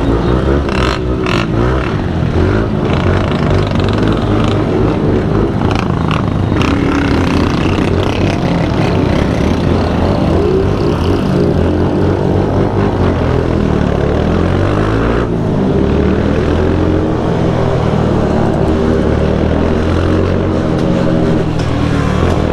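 Several motorcycle engines running together, rising and falling in pitch as riders rev them, with a few sharp clicks in the first couple of seconds.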